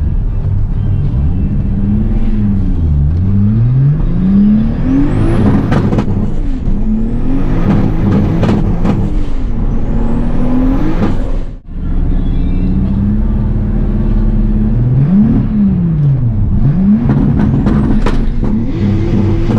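Car engines running and revving, with the engine note repeatedly falling and rising as they slow and accelerate. The sound briefly drops out near the middle.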